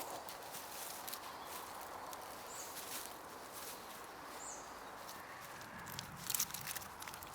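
Oak forest ambience in winter: a steady hiss of wind with light crackling and rustling of dry fallen leaves, and a cluster of louder rustles and snaps about six seconds in. A few faint, short high chirps come through the background.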